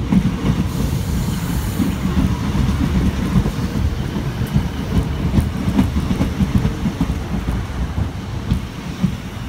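Diesel multiple unit passenger train running close past along the platform: a deep rumble with the wheels clattering over the rail joints.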